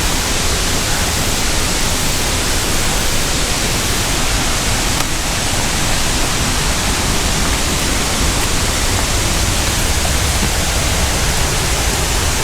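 Waterfall and creek rapids rushing: a loud, steady, even wash of falling water with no breaks.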